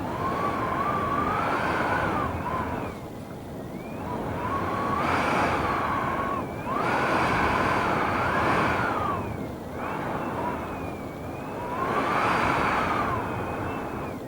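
Strong gale-force wind gusting, swelling and easing about four times, with a high whistle that rises and falls in pitch with each gust.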